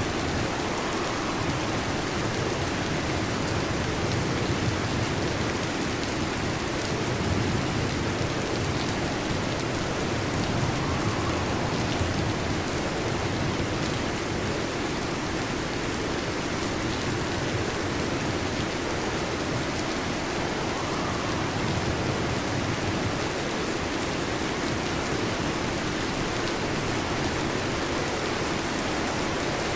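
Heavy rain drumming steadily on a metal roof, a dense, even patter with no break.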